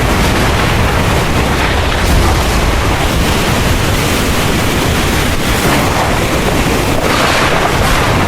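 Heavy rain pouring steadily with a deep rumble of thunder underneath; the rain hiss swells briefly about seven seconds in.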